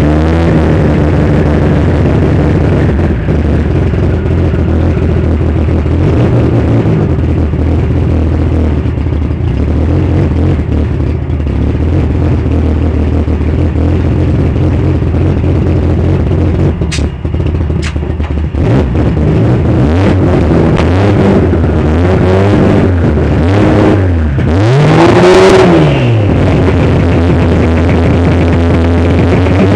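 Drag-race car engine running at a steady note for most of the stretch, then revving hard several times near the end, its pitch sweeping up and down. Two sharp clicks come just past the middle.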